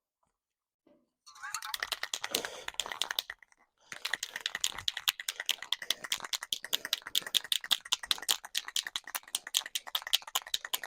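Aerosol spray-paint can being shaken, its mixing ball rattling in quick, even clicks, in two spells with a brief pause about a third of the way in.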